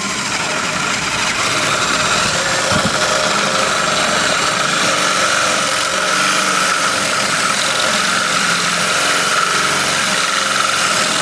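Electric drill running steadily under load, boring through the catalytic converter in a Suzuki motorcycle exhaust pipe.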